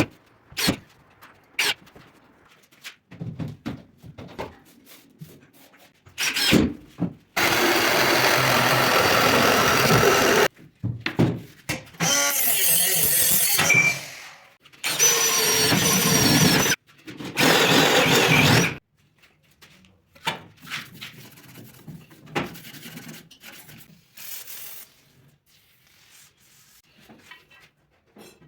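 A power tool running in four bursts of two to three seconds each, working porcelain stoneware tile, with short knocks and scraping between the bursts.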